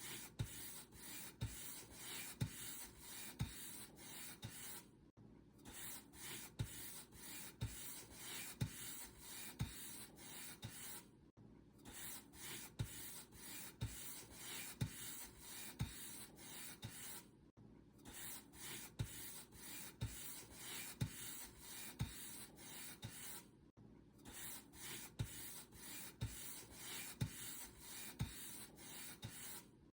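Paintbrush bristles brushing across a surface in quick repeated strokes, about two a second, with a short pause every six seconds or so.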